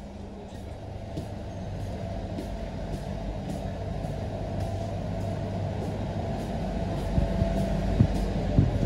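Steady rumble of a running passenger train heard from inside the coach, slowly growing louder toward the end doors, with a few sharp knocks and rattles near the end.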